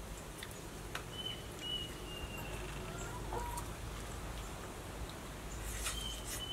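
Quiet rural outdoor ambience with a bird's thin, high, drawn-out whistled calls, one about a second in and another near the end, and a few small clicks.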